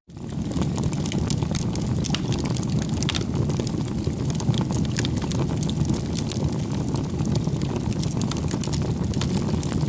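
Bonfire burning with a steady low rumble of flame and scattered sharp crackles and pops of burning wood. It cuts out for an instant at the very start, then resumes.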